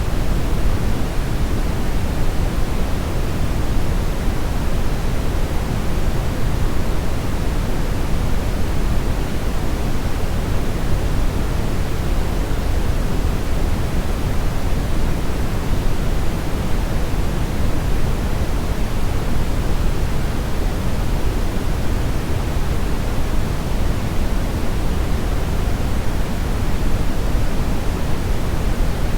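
Steady synthetic brownish noise: a continuous, even hiss-like rumble weighted toward the low end, with no changes or events.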